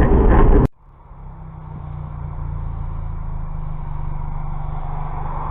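A loud burst of noise cuts off sharply under a second in. It is followed by a vehicle's engine running steadily with a low hum that fades in and then holds level.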